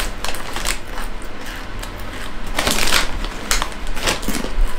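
Crunchy spiced tortilla chips being bitten and chewed close to the microphone: a run of irregular crackling crunches, the loudest a little over halfway through.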